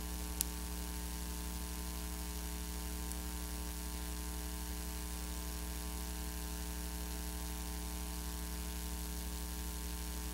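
Steady electrical mains hum with a ladder of overtones under an even hiss, from VHS tape playback before the program starts, with one sharp click about half a second in.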